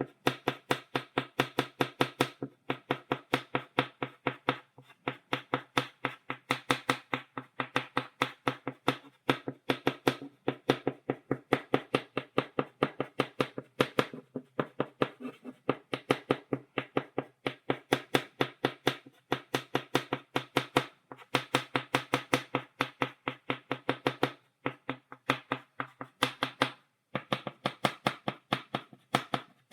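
Stick of chalk tapping dots onto a blackboard, rapid sharp taps at about five a second in runs broken by brief pauses.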